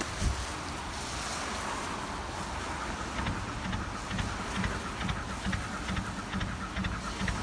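Wind buffeting the microphone, then from about three seconds in a diesel car engine running cold, its clatter coming through as rapid irregular ticking over a low rumble.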